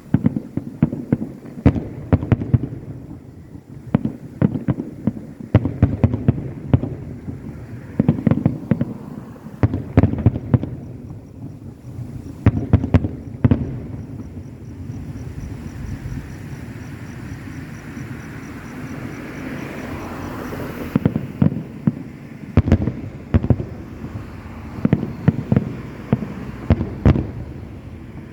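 Fireworks display: aerial shells bursting in rapid succession, one bang after another. The bangs thin out for a few seconds past the middle, then come thick and fast again near the end.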